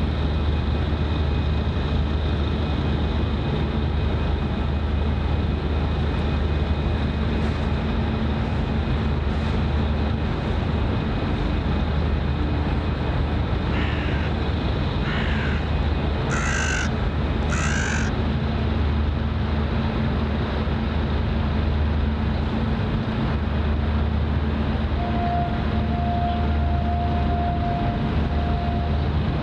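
A crow cawing four times, in quick succession about halfway through, over a steady low rumble.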